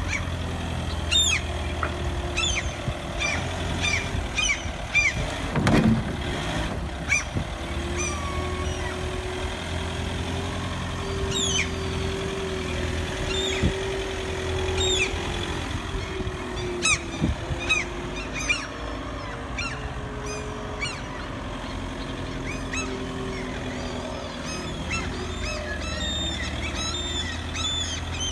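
Birds calling again and again in short, falling chirps over a steady low rumble.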